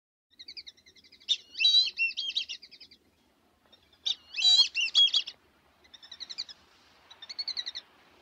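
Birdsong: runs of quick, high chirps and trills, with two louder warbling phrases about a second and a half in and about four seconds in.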